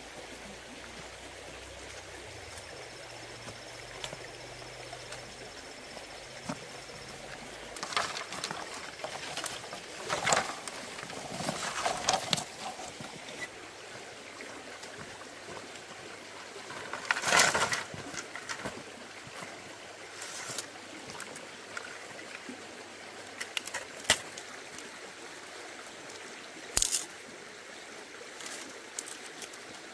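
A stream running steadily, with scattered short knocks and rustles over it, a cluster from about eight seconds in and the loudest a little past halfway.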